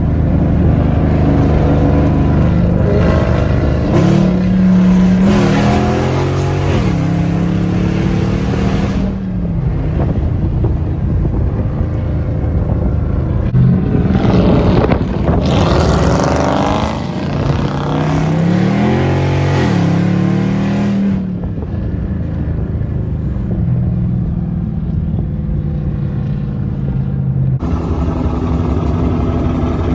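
Straight-piped 5.7-litre HEMI V8 of a Dodge R/T running loud with no mufflers. It pulls hard twice, its pitch climbing and dropping through the revs, and runs steadier in between.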